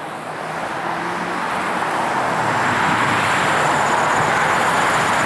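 Muscle car's engine and exhaust under acceleration, growing louder over about three seconds and then staying loud.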